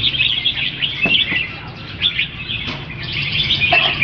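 Several young red-whiskered bulbuls (jambuls) chirping, a dense run of short, overlapping high calls that thins out around the middle and picks up again near the end.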